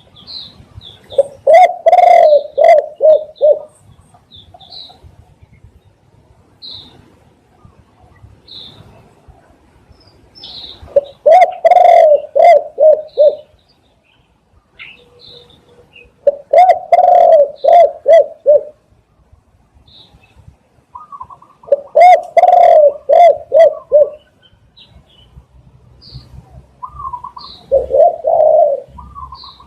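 Spotted dove cooing: five phrases of a few quick low coos each, coming every five or six seconds, the last one shorter. Faint short high chirps of small birds come between the phrases.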